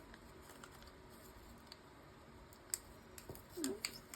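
A few light clicks and taps of small card pieces and glue dots being handled and pressed onto a card, mostly in the second half.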